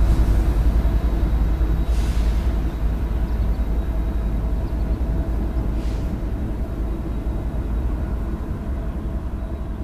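Union Pacific freight train rolling away down the track. Its steady low rumble slowly fades as it recedes.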